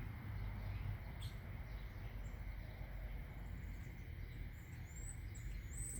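A distant songbird giving faint, short high chirps, several in the second half, over a steady low rumble of outdoor background noise.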